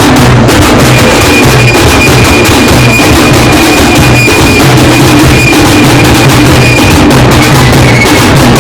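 Loud, dense drumming with a fast, steady beat, the percussion of a Muharram procession, recorded so close that it is overloaded.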